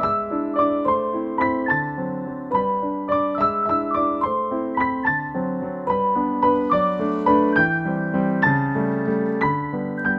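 Background music: a gentle piano melody of steady, evenly struck notes.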